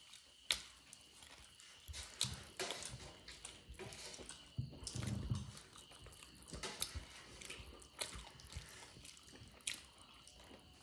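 A person chewing and biting into chicken and cucumber, close to the microphone, with irregular sharp crunchy clicks.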